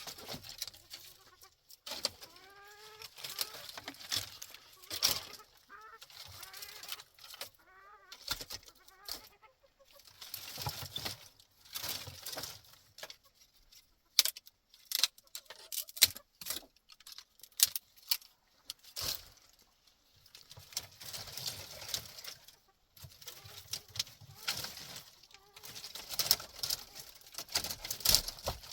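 Chickens clucking in short calls, with repeated bursts of scraping and rustling noise and a few knocks.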